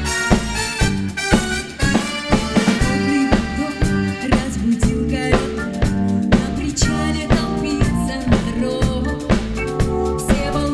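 Live band playing a song, with a steady drum-kit beat and bass under the other instruments.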